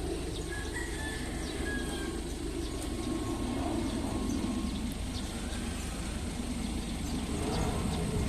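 Airbus A320neo jet engines running, a steady low rumble that grows slightly louder toward the end.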